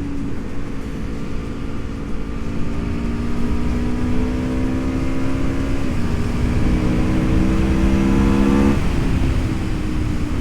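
Aprilia Tuono V4 RR's V4 engine pulling under load while riding, its pitch climbing slowly, dipping briefly about six seconds in, then falling near the end. Heavy wind rumble on the microphone.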